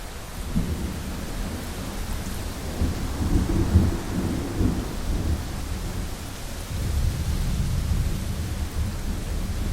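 Rolling thunder over steady rain on a window: a low rumble builds about half a second in, is loudest around three to four seconds, and swells again near the end.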